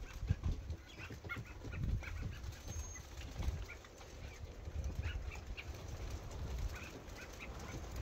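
Many small birds chirping, with short scattered chirps overlapping throughout, over a low uneven rumble.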